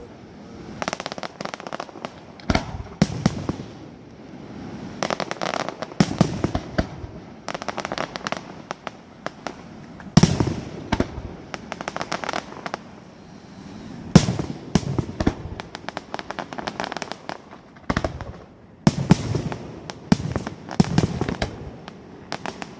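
Fireworks display: shells bursting one after another in quick clusters, with crackling between the bangs. The loudest bangs come about ten and fourteen seconds in.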